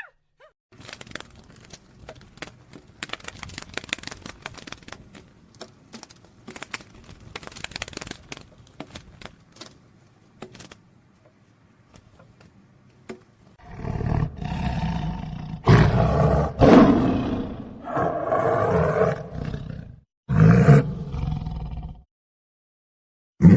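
A large animal roaring: after a stretch of faint scattered crackling and clicks, three loud, deep calls, each lasting a few seconds, come in the second half.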